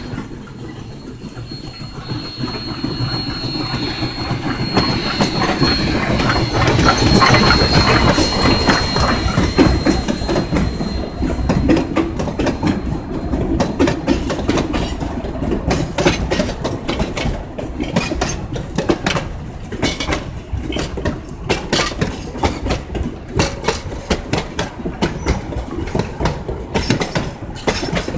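Narrow-gauge steam locomotive passing close, with a steady high-pitched squeal through the first dozen seconds; it is loudest about 5 to 10 seconds in. The passenger cars then roll by with rhythmic clicking of wheels over the rail joints.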